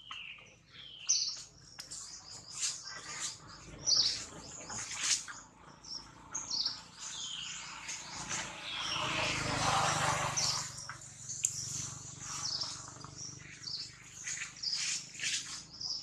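Birds chirping with many short high calls, some sliding downward. A broad rushing noise swells and fades about two-thirds of the way through.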